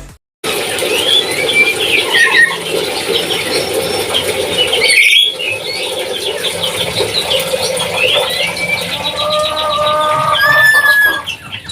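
Papuan lory (nuri) parrot calling in a run of shrill squeals and chirps that glide up and down in pitch, with a short break about halfway through.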